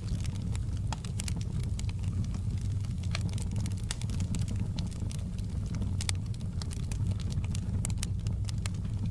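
Wood fire burning: a steady low rumble of the flames with many sharp, irregular crackles and pops.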